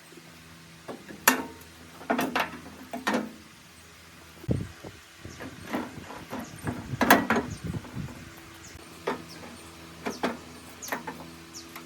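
Irregular knocks and clatter of hand work, about a dozen sharp strikes spread unevenly, the loudest about a second in and near the middle, over a faint steady hum.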